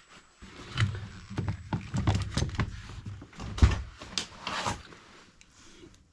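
A series of irregular knocks, clicks and light thuds, as of objects being handled and set down, with the loudest knock about three and a half seconds in.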